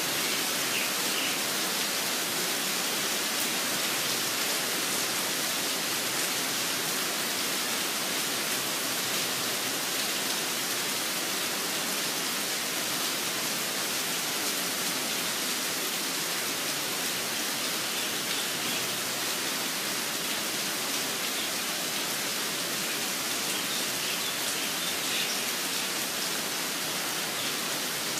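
Steady rain falling, an even hiss, with a few faint short bird calls about a second in and again about two-thirds of the way through and near the end.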